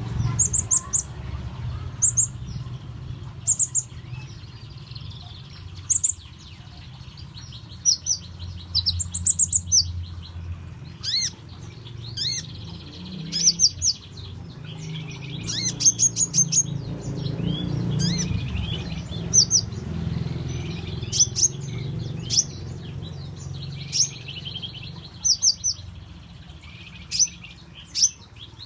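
Small songbird, a konin (kolibri ninja, a sunbird), calling with sharp high chirps, singly and in quick runs of several, mixed with downward-sliding notes and buzzy twittering. A steady low hum runs underneath.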